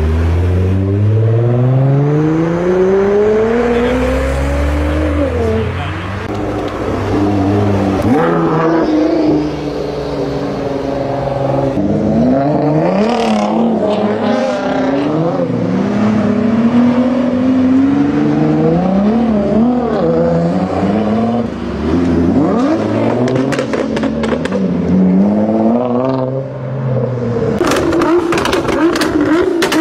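Nissan GT-R R35's twin-turbo V6 accelerating hard over several runs, the note climbing through the revs and dropping back at each upshift. Near the end it holds steadier revs under a rapid run of sharp crackles.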